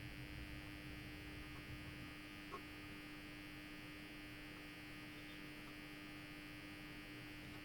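Faint, steady electrical hum, with one soft click about two and a half seconds in.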